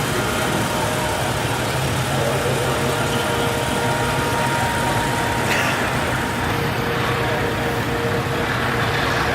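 Car and truck engines running steadily amid street noise, with a low engine drone throughout.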